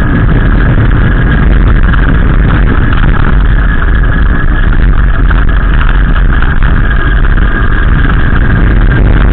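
Gusty wind buffeting the microphone: a loud, continuous low rumble.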